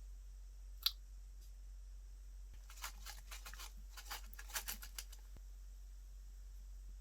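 Slime being squeezed and poked by hand, making small crackling pops and clicks as air pockets burst. One sharp pop comes about a second in, followed by a quick run of little clicks for a couple of seconds.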